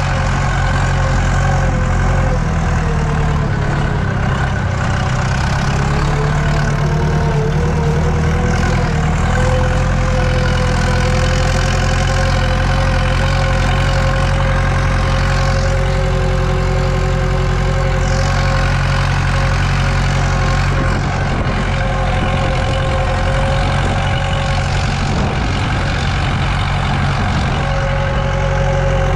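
Tractor diesel engine running steadily under load, heard from inside the cab while pulling a cultivator; its pitch sags slightly a few seconds in, then holds even.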